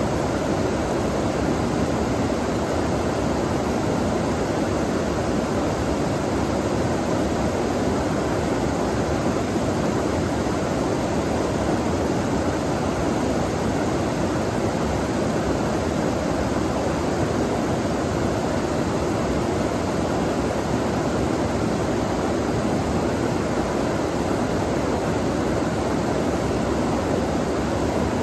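Running water rushing steadily, a constant full-bodied roar with no breaks.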